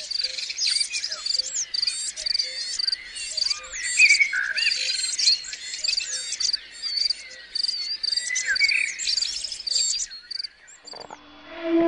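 A chorus of birds chirping and singing, many calls overlapping, with one call repeating at a steady pace. It stops about eleven seconds in, and a sustained flute note begins.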